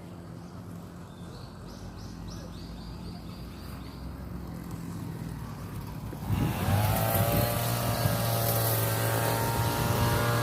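Faint bird chirps over a low steady hum, then about six seconds in a loud engine drone sets in, its pitch sliding down and then holding steady.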